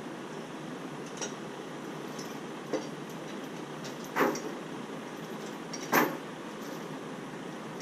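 Sharp metallic clanks, two loud and two lighter, over a steady running noise.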